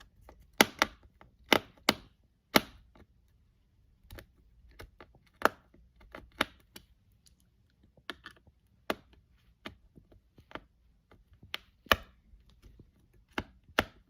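Screwdriver clicking and tapping against a small screw in a laptop's motherboard, in sharp irregular clicks about one or two a second. The screw is one that may be damaged.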